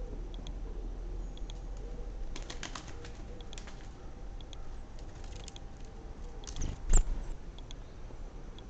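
Pigeons cooing low and soft, with faint short chirps of small birds. A brief patch of rustling comes a couple of seconds in, and a single sharp knock about seven seconds in is the loudest sound.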